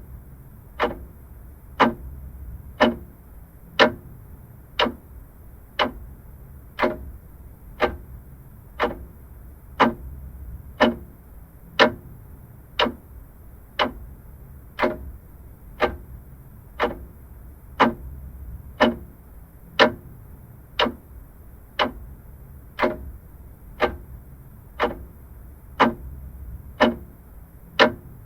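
Vintage clock ticking steadily, one sharp tick about every second, over a faint low hum.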